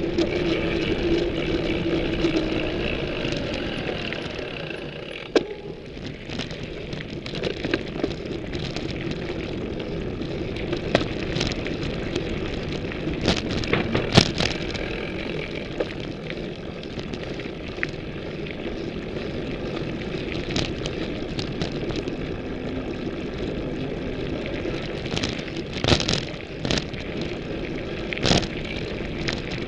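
Ibis Mojo HD full-suspension mountain bike being ridden, heard through a camera mounted on its frame: steady tyre and drivetrain rolling noise with irregular sharp knocks and rattles as the frame takes bumps in the trail. A steady hum near the start fades within the first few seconds.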